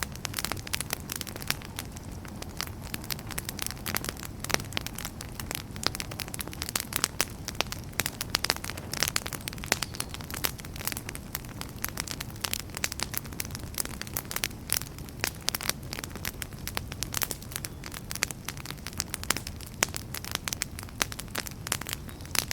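Wood campfire burning with dense, irregular crackles and pops over a soft steady low roar of the flames.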